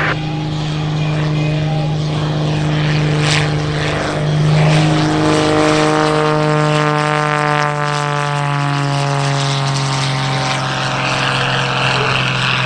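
Wolf Pitts Pro aerobatic biplane's piston engine and propeller droning loudly as it flies past. The pitch rises briefly about four seconds in, then slides steadily lower through the rest of the pass.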